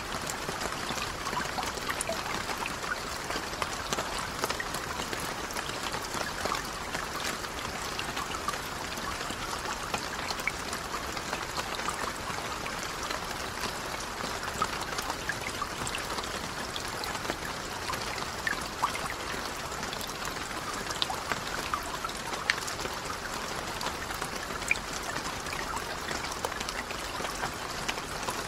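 Steady rain falling on a lake's surface: an even hiss dotted with many small drop ticks.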